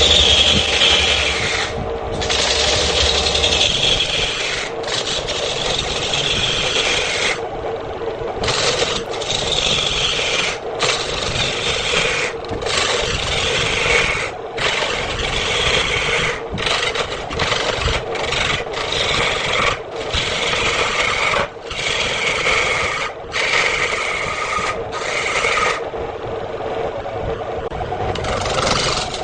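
Wood lathe running with a steady hum while a hand-held turning tool scrapes and cuts into the spinning redwood, a rasping sound in repeated passes broken by brief pauses as the tool comes off the wood, the pauses coming more often in the second half.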